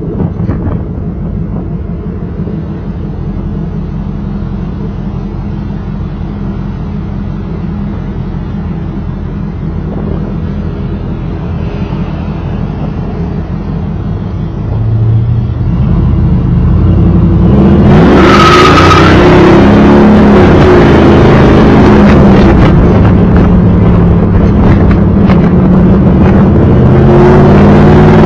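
1995 Chevrolet Camaro Z28's LT1 V8 through a Flowmaster exhaust, running at a steady low drone. About halfway through it gets much louder, the exhaust note rising and falling as the engine revs up and down repeatedly.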